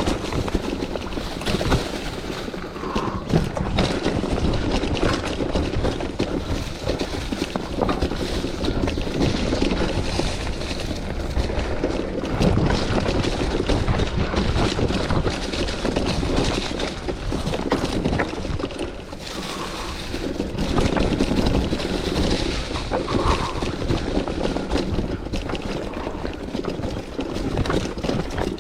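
Mountain bike ridden over rough trail: tyre noise on dirt, with the bike clattering and rattling over bumps, and wind on the microphone.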